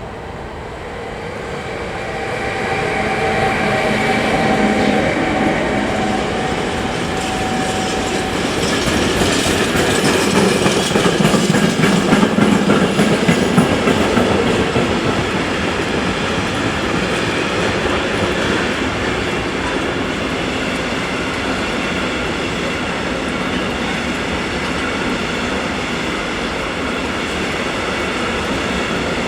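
A train passing on the track, its wheels clattering over the rails, growing louder over the first few seconds and then holding steady. A steady whine sounds through the first several seconds.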